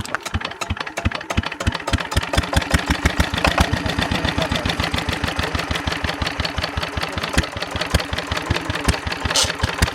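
Engine of a wood-cutting machine running steadily with a rapid, even beat.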